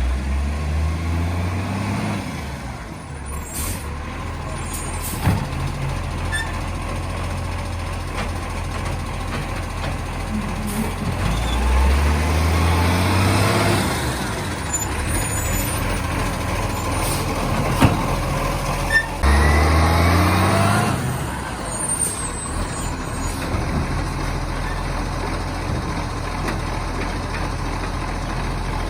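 Garbage truck's diesel engine idling and revving up three times, the pitch rising then dropping back each time. Two sharp knocks come just past halfway.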